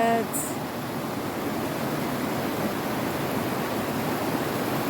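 Creek water rushing steadily, with a brief sharp click just after the start.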